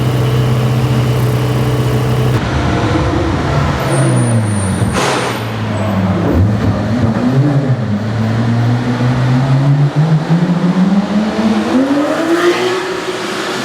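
Supercar engines: a steady low drone for the first couple of seconds, then revving with the pitch rising and falling through gear changes, a short sharp crack about five seconds in, and a long pull rising in pitch from about eight seconds that eases off near the end.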